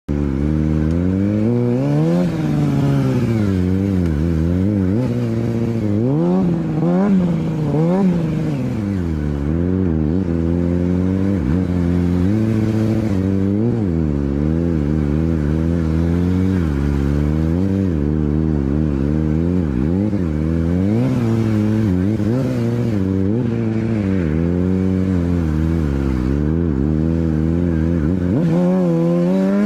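Motorcycle engine revving up and down over and over, its pitch rising and falling every second or two without a break.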